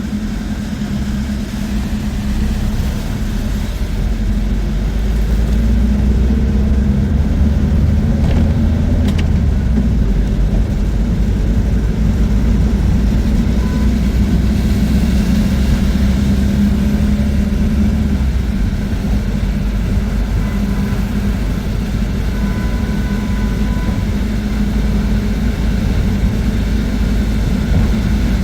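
Bus engine and road rumble heard from inside a moving bus: a steady, heavy low drone that swells a few seconds in and then holds. A faint short beep sounds about two-thirds of the way through.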